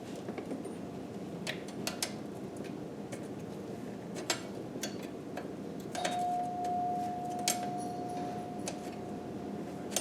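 Scattered light metallic clicks and clinks of hand tools on the engine as intake-manifold bolts are worked loose. About six seconds in, a steady single-pitched tone starts and holds for about four seconds, then stops.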